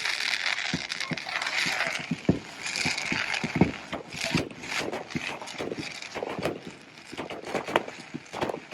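Crackling and popping of a burning bonfire: a dense hiss over the first few seconds, with irregular sharp pops and snaps of varying strength throughout.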